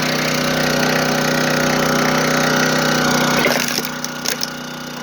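Small gasoline engine of a log splitter running steadily, then dropping away about three and a half seconds in, followed by a few sharp cracks and knocks.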